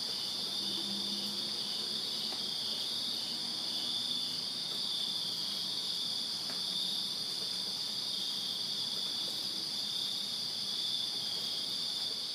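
Field crickets chirping together in a steady, high-pitched night chorus, with one trill pulsing slightly lower beneath the continuous ring.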